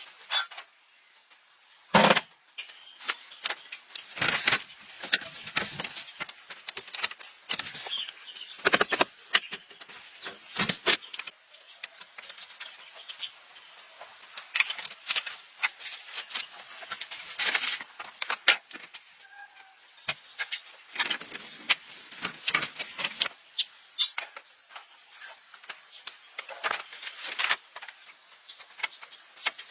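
Irregular clicks, knocks and clatter of hand tools and metal parts being handled during truck repair work, with a few sharper knocks standing out.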